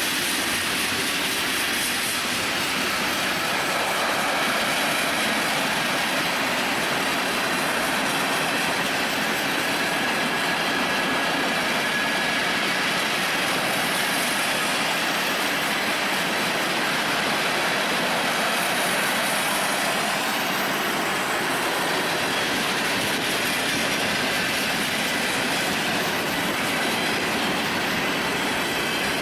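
Union Pacific freight train cars rolling past: a steady, unbroken rumble and clatter of steel wheels on the rails, with a faint thin wheel squeal.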